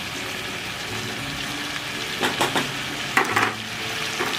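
Chicken pieces frying in hot ghee in a metal pot, with a steady sizzle. A few short clatters of a utensil against the pot come about two seconds in.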